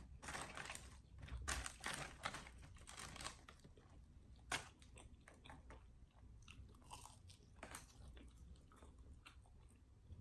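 Close-miked chewing and lip smacking on crunchy fried food, a string of small crisp crunches and wet clicks. It is busiest for the first few seconds, with one sharper crunch midway, then thins out.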